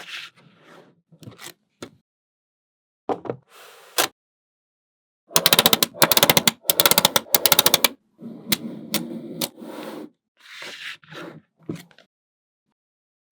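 Small magnetic balls clicking and snapping together, with single sharp clicks and short rattles, and a fast rattling run of clicks for about two and a half seconds in the middle.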